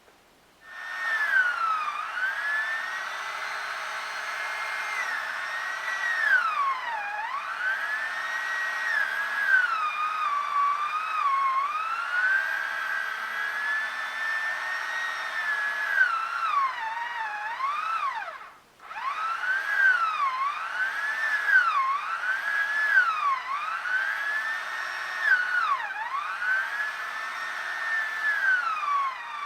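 Chainsaw cutting through log rounds. Its pitch holds high, sags as the chain bites into the wood, then climbs back again, over and over, with a short break about two-thirds of the way through.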